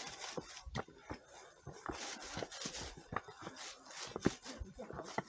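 Hikers' footsteps on a forest trail: irregular crunches, scuffs and clicks of shoes on dirt, stones and leaf litter.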